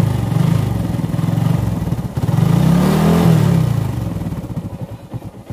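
A motor vehicle engine running with a pulsing beat. Its pitch rises and then falls about three seconds in, and it fades somewhat near the end.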